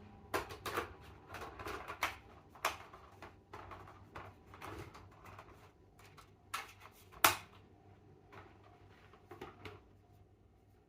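A series of irregular light clicks and clatters, like small hard objects being knocked or handled, with one louder sharp click about seven seconds in; the clicks thin out near the end.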